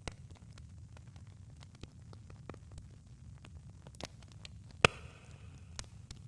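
Campfire crackling: scattered small pops and snaps over a low steady rumble, with one loud pop almost five seconds in followed by a brief hiss.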